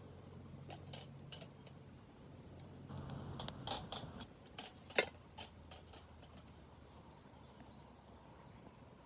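Scattered light clicks and clinks, bunched a few seconds in, with one sharp, loud click about five seconds in.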